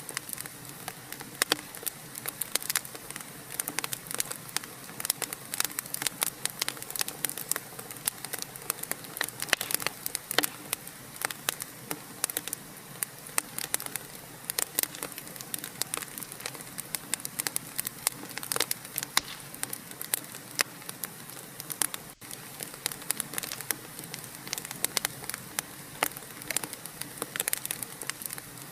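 Wood fire in a fireplace crackling, with many sharp irregular pops over a steady hiss.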